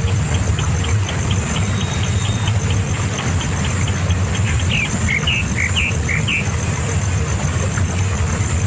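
High, short bird chirps repeating quickly, with a few squeaky, falling call notes about five to six seconds in, over a steady low hum that is the loudest sound.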